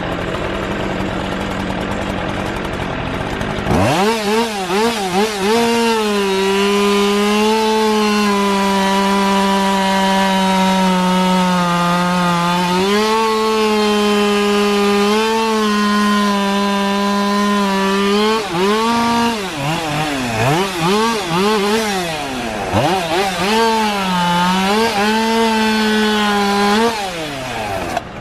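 Chainsaw engine at full throttle cutting through wood, its pitch sagging under load during each long cut and rising again as the chain frees. About four seconds in it revs up from a lower idle. Midway it pauses in the cut with a few quick blips of the throttle before biting in again.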